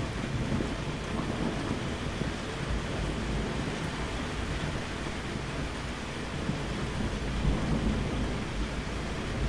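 Steady rainfall with low rolling thunder rumbling beneath it, the rumble swelling about half a second in and again near the end.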